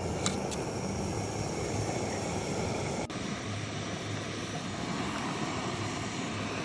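Portable gas camp stove burning with a steady roaring hiss as it heats water to a boil.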